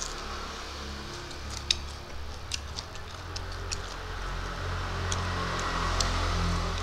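Close-miked eating sounds of fried prawns and rice eaten by hand: scattered sharp mouth clicks and smacks of chewing. A steady low hum runs underneath, and a soft hiss swells in the second half.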